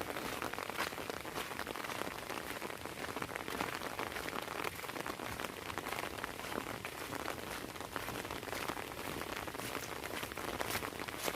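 Heavy rain falling steadily, dense drops pattering on an umbrella overhead and the ground around.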